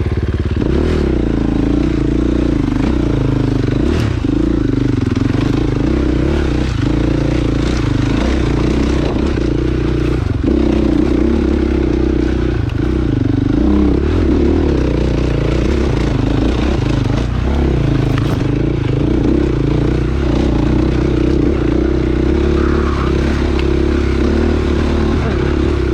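Dirt bike engine running under changing throttle on a trail ride, its pitch rising and falling, with a few short knocks and clatter.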